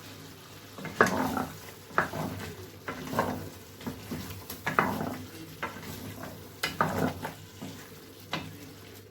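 A spoon stirring spices into a simmering tomato-and-masala sauce in a cooking pot. It scrapes in repeated strokes about once a second while the sauce sizzles.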